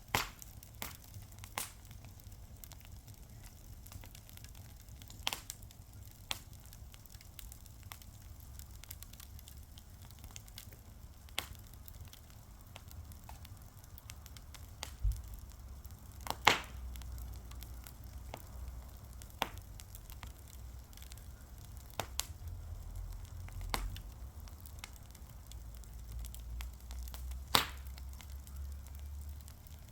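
Fire crackling, with a sharp pop every few seconds; the loudest comes about halfway through. A low rumble comes in partway through.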